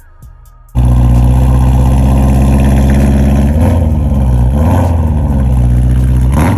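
BMW E92 M3's V8 running loud and hard through its valved exhaust, cutting in abruptly under a second in. The revs hold fairly steady, dipping briefly and picking up again twice.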